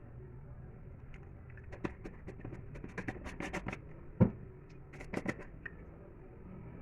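A run of light clicks and taps, with one louder knock a little past the middle.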